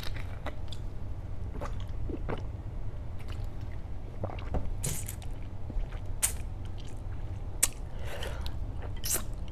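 Close-miked mouth eating jumbo shrimp in sauce: irregular wet smacks, bites and chewing clicks.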